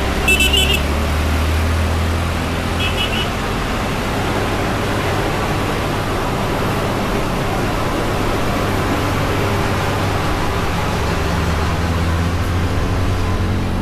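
Heavy vehicle engines and road traffic running steadily, with a deep engine drone that is loudest near the start and again toward the end. Two short high-pitched beeps sound, about half a second in and again around three seconds in.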